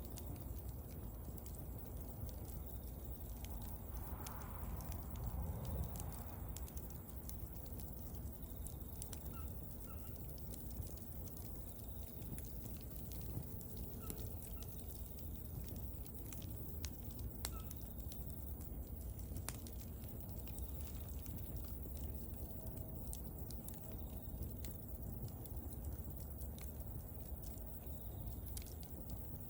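Wood bonfire crackling, with sharp irregular pops and snaps over a low steady rumble. It swells briefly about five seconds in.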